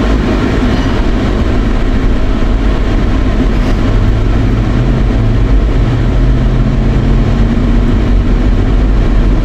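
Car air-conditioning blower running on high, a steady rush of air, over the low drone of the engine and road noise inside the moving car. The low hum rises slightly in pitch around the middle.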